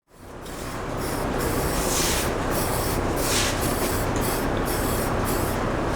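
Aerosol spray can of primer spraying a wheel in short hissing passes, over a steady low shop hum.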